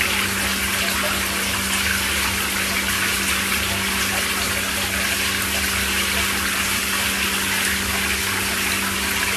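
Steady rush of running water with a steady low hum under it.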